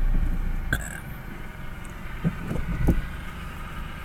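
Kia Soul heard from inside the cabin while driving: a low engine and road rumble that gets quieter about a second in, with a sharp click just before that and a few soft knocks near the middle.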